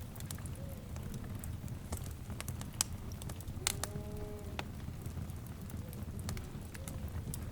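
Wood fire crackling over a steady low rumble, with irregular sharp snaps. About halfway through comes a single short pitched animal call lasting under a second.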